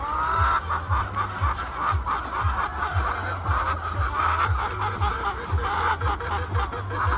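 A large flock of laying hens clucking and chattering, many birds calling over one another, with a low thump repeating about twice a second underneath.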